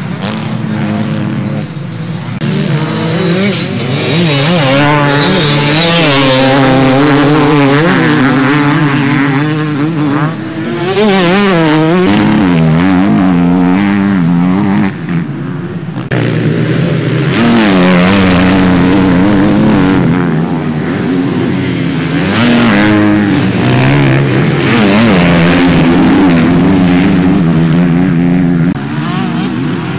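Motocross bikes running on the track, several engines overlapping, their pitch rising and falling constantly as the riders work the throttles through the course, growing louder and fading as the bikes pass.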